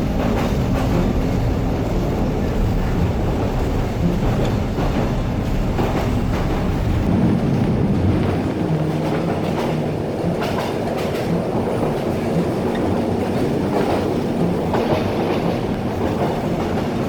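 Kuranda Scenic Railway train running on the track, with the steady rumble and clatter of the carriage wheels over the rails. The deepest part of the rumble thins out about halfway through.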